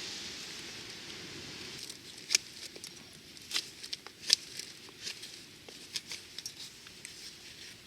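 Campfire crackling: irregular sharp pops and clicks of burning wood, two of them louder, over a soft hiss that fades in the first couple of seconds.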